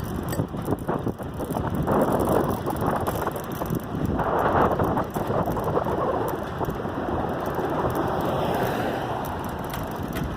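Adult tricycle being ridden, with the chain and drivetrain clicking and rattling over rolling tyre noise. Wind rushes on the microphone and swells in gusts.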